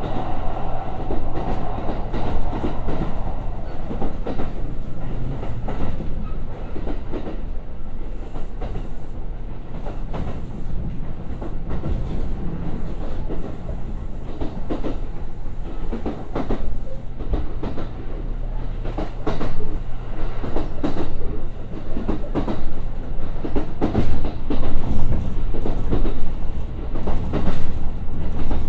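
Kintetsu 1021-series electric train running, heard from inside the car: a steady rumble with the wheels clacking over rail joints in irregular strikes, louder in the last third. A whine just under 1 kHz fades out in the first few seconds.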